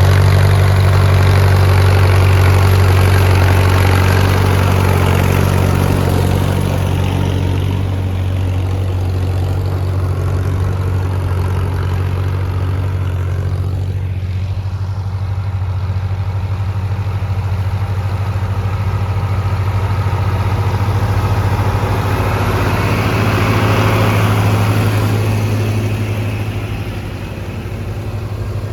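Antique tractor engine running steadily, with a low, even engine note. It is loudest at the start, eases off in the middle and swells again before dropping near the end.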